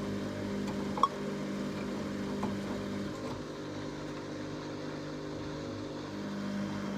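14-year-old Samsung washing machine spinning at about 1000 RPM, running with a steady hum. A short squeak comes about a second in and a fainter one about two and a half seconds in. The owner takes the squeaking, heard only with an unbalanced load, for worn drum bearings.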